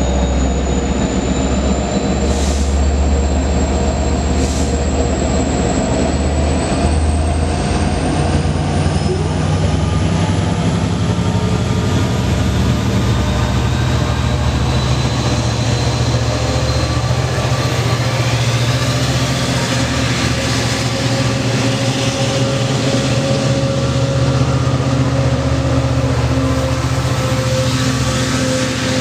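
Diesel locomotives of a passenger train running loudly and steadily. A high whine rises gradually in pitch as the train gathers speed, and there are two sharp clicks a few seconds in.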